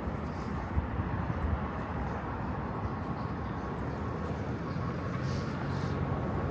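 Outdoor city ambience: a steady low rumble of distant traffic and urban machinery, with a faint steady hum.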